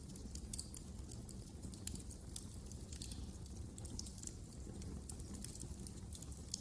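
Wood fire crackling in a fireplace: irregular small pops and snaps, several a second, over a steady low noise from the burning.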